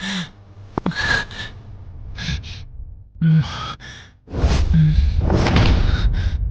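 A man's breathy sighs and gasps with short voiced breaths, performed by a voice actor. About four seconds in, a loud low rumble comes in under the breathing.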